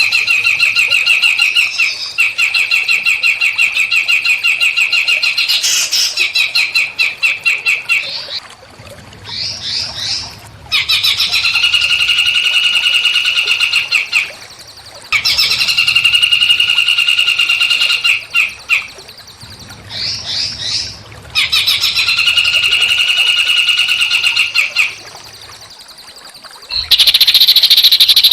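Small songbird singing long, buzzy trilled phrases of several seconds each, separated by short pauses and brief runs of quick rising notes. Near the end a louder, harsher high-pitched sound takes over.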